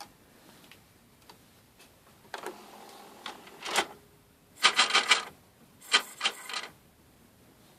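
Marantz CD-65MKII CD player's mechanism making short scraping, grinding noises with no disc loaded: a few faint scrapes from about two seconds in, then two louder gritty bursts about five and six seconds in. The uploader takes this noise to be probably normal for old CD players.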